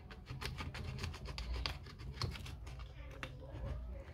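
Handling and prying at an Apple Time Capsule's casing with tools: a rapid run of sharp clicks and scrapes, thinning out to fainter rubbing in the second half.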